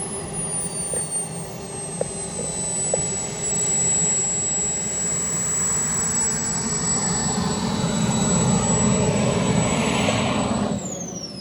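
Turbine engine of a large RC model jet, a BDX, flying past: a high steady whine over a rushing jet noise that swells as it nears. Near the end the whine drops sharply in pitch as the jet passes.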